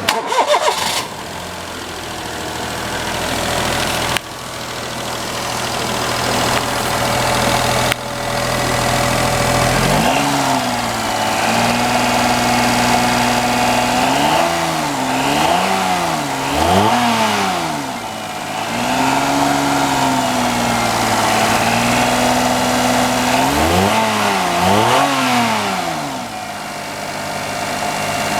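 Daihatsu KF-VE 658 cc three-cylinder engine catching right at the start and then idling steadily. About ten seconds in, the revs are raised and held, with several quick blips of the throttle, before easing back near the end. The owner feels it runs a little loud.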